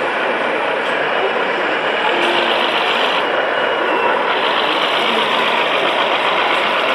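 Steady mechanical din of running engines from radio-controlled model trucks working a model construction site.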